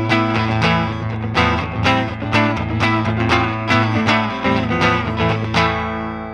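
Electric guitar, a Fender Stratocaster, played through a Line 6 Helix amp-and-cab model: picked notes about two a second over ringing low notes, fading out near the end.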